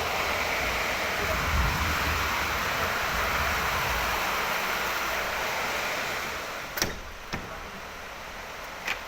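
Heavy rain pouring down in a steady hiss. The hiss drops in level about two-thirds of the way in, and then come three sharp clicks.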